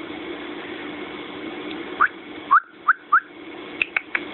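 Pet bird chirping over a steady hum: four short rising whistled chirps about two seconds in, then a rapid run of short, sharp chirps near the end.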